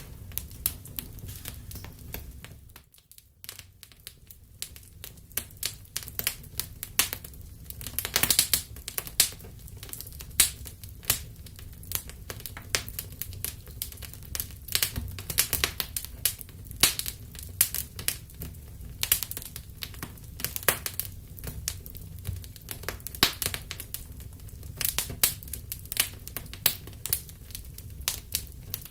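Wood fire crackling in a fireplace: irregular sharp pops and snaps over a low steady rumble, which drops away briefly about three seconds in.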